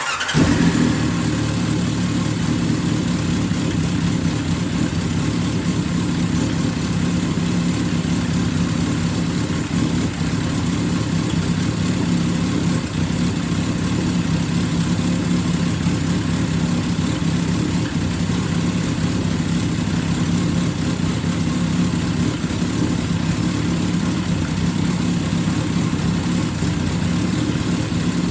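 Kawasaki Zephyr 1100RS air-cooled inline-four engine starting, then idling steadily.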